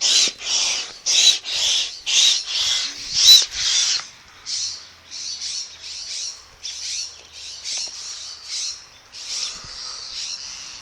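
Hand air pump inflating a kite, each stroke giving a squeaky, high-pitched hiss about twice a second that sounds like a trapped bird calling. The strokes are loud for about four seconds, then go on quieter and less regular.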